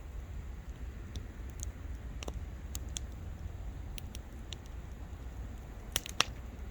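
Wood campfire crackling: scattered sharp pops over a low, steady rumble, with two louder pops close together near the end.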